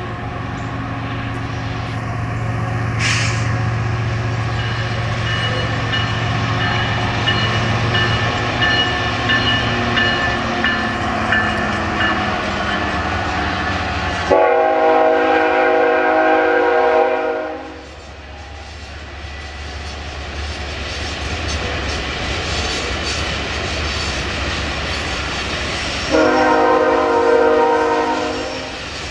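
Freight train of covered hopper cars rolling past on the rails, with a steady low drone under the rolling noise in the first half. A loud multi-tone train air horn sounds for about three seconds halfway through, and again near the end.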